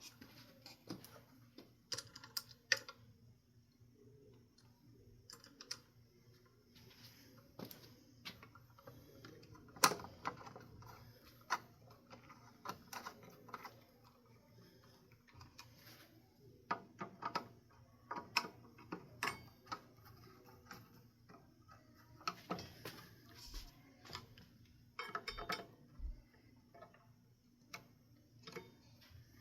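Irregular small clicks, taps and knocks as screws and metal parts are handled while blades are screwed onto a ceiling fan with a flathead screwdriver. One sharper knock comes about ten seconds in.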